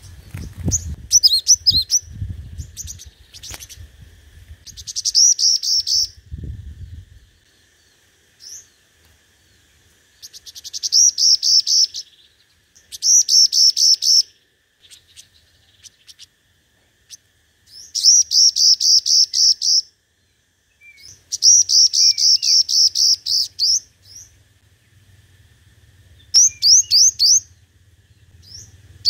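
Sunbird song: bursts of rapid, high, repeated chirps, each burst lasting one to two seconds, coming every few seconds with short silences between.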